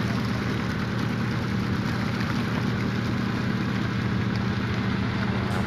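An engine running steadily at idle aboard a fishing boat, a constant low hum.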